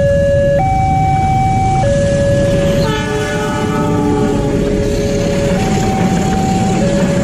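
Train passing a level crossing with a steady rumble, while the crossing's warning alarm sounds a two-tone signal, stepping between a lower and a higher note about once a second. A chord-like train horn sounds from about three seconds in for about two seconds.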